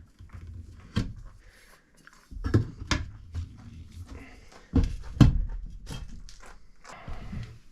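Irregular knocks and clunks from hand work on a tractor tire and wheel, with the loudest pair about five seconds in.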